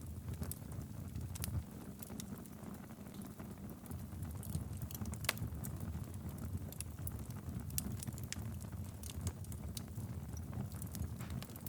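Wood fire burning steadily in a fireplace: a low rumble of flames with scattered sharp crackles and pops, one louder pop about five seconds in.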